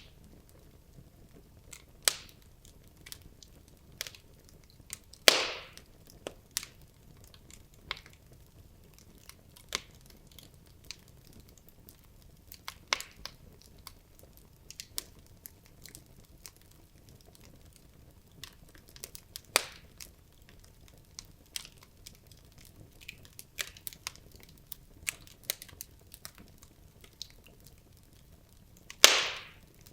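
Wood logs burning in a fireplace, crackling with scattered sharp pops over a quiet hiss; two louder, longer pops come about five seconds in and near the end.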